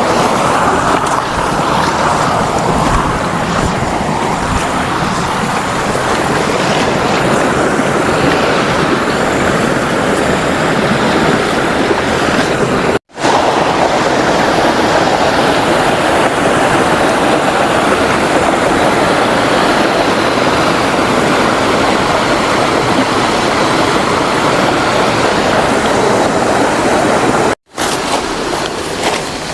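Steady roar of a waterfall's rushing water, broken twice by a split-second gap.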